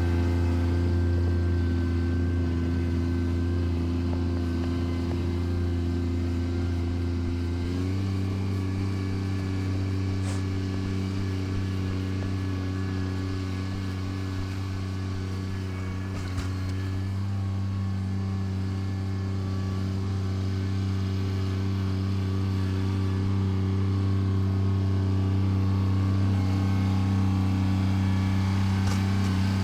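Bobcat tractor's engine running steadily at constant speed while it pushes through snow, with an abrupt shift in its pitch about eight seconds in.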